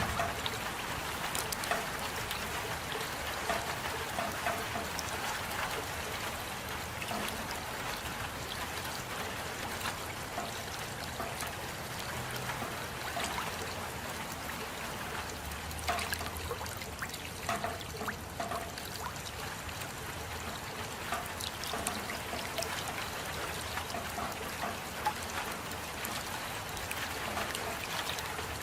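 Steady rain falling, with water trickling and many small scattered drips, a few of them sharper.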